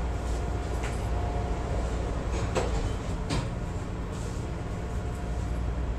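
Inside a CTA Brown Line rail car standing at the platform with its doors shut: the car's equipment hums steadily, with three short clicks or knocks at about one, two and a half and three seconds in.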